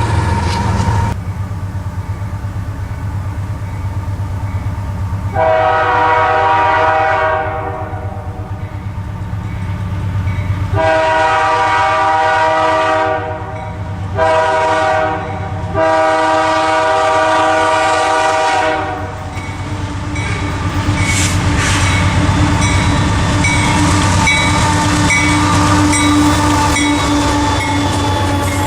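Diesel locomotive horn sounding the grade-crossing signal, two long blasts, a short one and a final long one, over the steady rumble of the passing train. Near the end the wheels click-clack in a regular rhythm over the rail joints.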